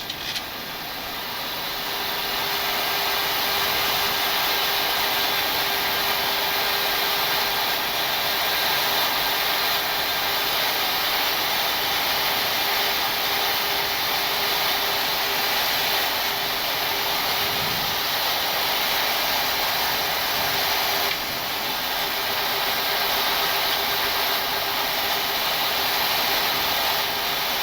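Steady rush of air and systems noise on a Boeing 737-800 flight deck in descent, building over the first couple of seconds and then holding steady, with a faint steady hum joining about two seconds in.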